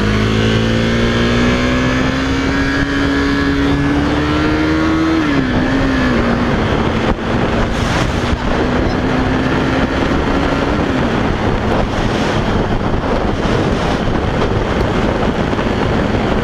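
KTM 390 Duke's single-cylinder engine pulling under way, its pitch climbing slowly and then dropping sharply at gear changes about five and eleven seconds in, with wind rushing over the microphone.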